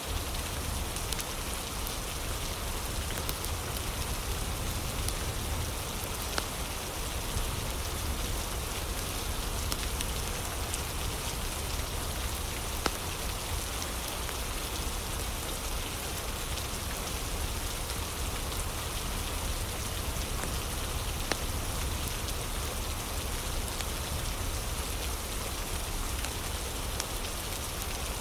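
Steady rain falling, with scattered sharp crackles from a wood fire mixed in.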